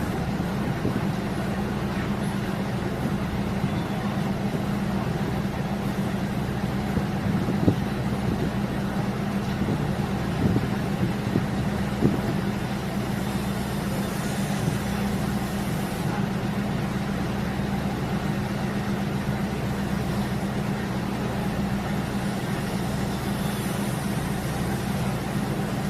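Diesel railcar running along the line: a steady engine drone with a low hum and a few short knocks.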